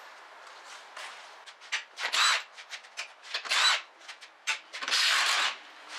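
A power tool run in three short bursts, about two, three and a half and five seconds in, the last the longest, with small clicks and knocks of handled parts and tools between.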